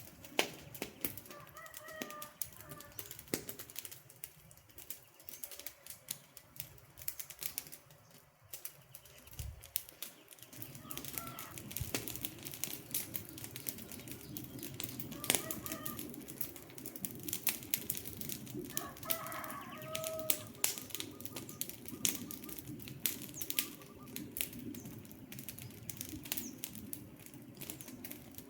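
Wood fire crackling with irregular sharp snaps and pops, joined by a low steady rush of flame about a third of the way in. A few short pitched bird calls come through, the clearest near the middle and again about two thirds in.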